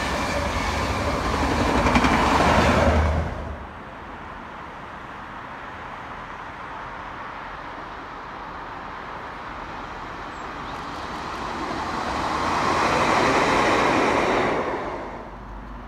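A High Speed Train's coaches running past at speed, loud for about three seconds before the sound cuts off abruptly. A quieter steady rumble follows, then a diesel multiple unit approaching and passing, swelling near the end and dropping away quickly.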